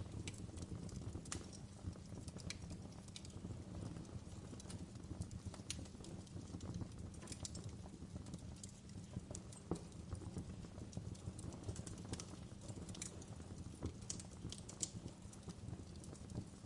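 Wood fire burning, with irregular sharp pops and crackles over a low steady rumble.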